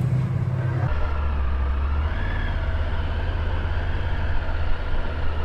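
A passing train's steady rumble, which about a second in changes abruptly to a lower steady vehicle drone.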